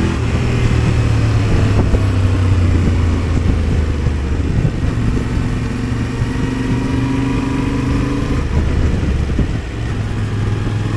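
Yamaha Ténéré 700's parallel-twin engine running in third gear on the move, easing off into a bend and then pulling steadily again, with wind rush over the helmet microphone.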